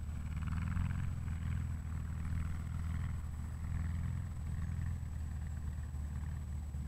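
A Volkswagen Beetle rat rod's engine running steadily at idle, a low even hum.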